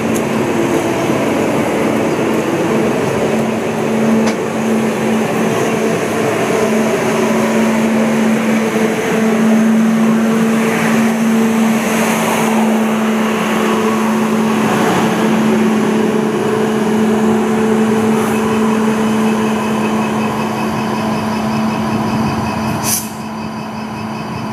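Passenger train coaches passing close by at speed: a steady rumble and clatter of wheels on the rails with a steady low hum over it. Near the end there is a short click and the sound drops suddenly.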